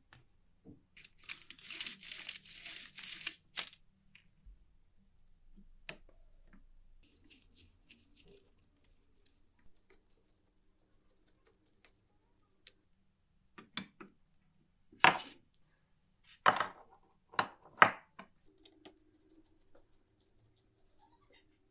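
Workbench handling noises: a rough rasping scrub lasting about two and a half seconds near the start, then scattered light clicks and a few sharp knocks in the second half.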